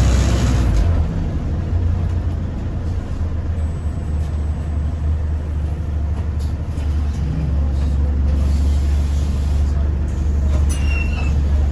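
Bus engine running steadily as the bus drives, heard from inside the passenger cabin as a low drone. A hiss of air fades out in the first second.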